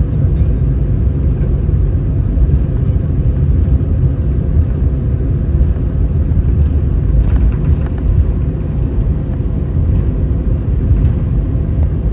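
Steady low rumble of cabin noise inside an easyJet Airbus A319, from its CFM56 engines and the air around the fuselage, with a few faint clicks or rattles around the middle.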